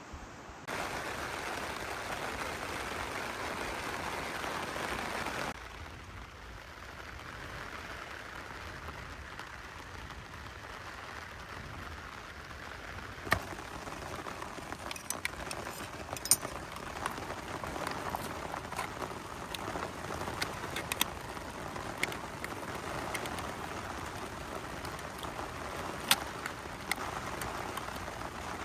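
Heavy rain falling as a steady hiss, louder for the first few seconds and then softer. From about halfway on, single large drops land with sharp taps over the hiss.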